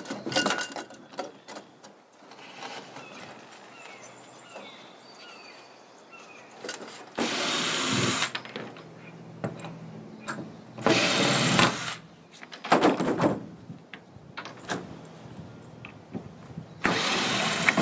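Power drill-driver running in three short bursts of about a second each, backing out the flathead screws that hold down a wooden truck bed floor, with small clicks and handling noise between the bursts.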